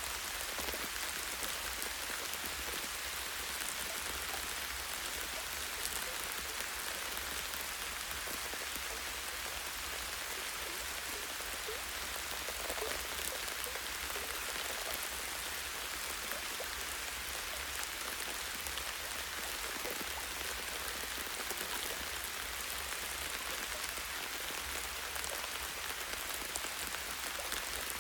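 Steady light rain falling in a forest, with the close patter of drops on leaves and a tree branch.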